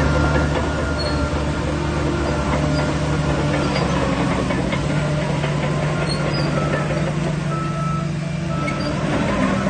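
Shantui DH17C3 Pro bulldozer's diesel engine running steadily under work, easing slightly about eight seconds in and picking up again near the end, with short high-pitched tones now and then.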